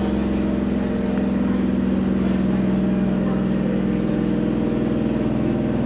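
Electric local train giving a steady droning hum, with a low pitched note and fast fine pulsing.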